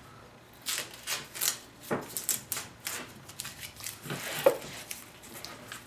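Handling noises as a pattern is lifted off a plywood chair-seat blank: a string of irregular clicks, taps and rustles, with one louder knock about four and a half seconds in.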